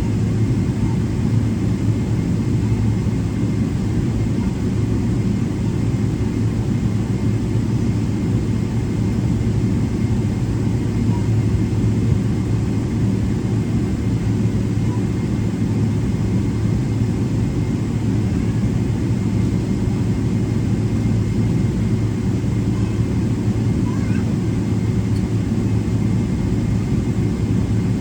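Boeing 777-300ER cabin noise during taxi: the GE90 turbofans at low taxi power give a steady low rumble with an even hum.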